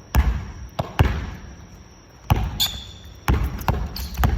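Basketball bouncing on a hard gym floor: about seven sharp, echoing bounces at an uneven pace. A brief high squeak comes a little past the middle.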